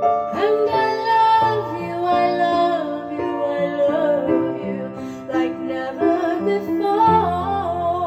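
A slow ballad: a woman's singing voice, with wavering held notes, over an accompaniment of sustained instrumental notes.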